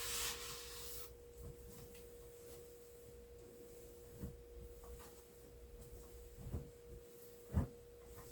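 A faint, steady, single-pitched hum, with a short soft hiss in the first second and a few faint knocks about four, six and a half and seven and a half seconds in.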